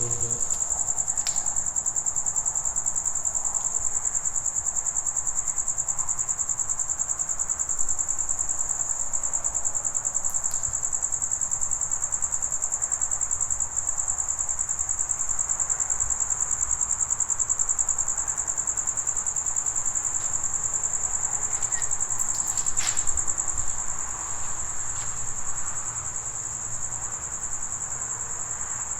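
Crickets chirping in a continuous high, rapidly pulsing trill, with a few faint clicks.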